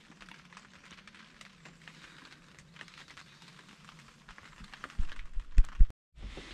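Light rain pattering on the fabric of a pop-up ground blind, a faint steady ticking. About five seconds in come a few loud low thumps, and then the sound cuts off abruptly.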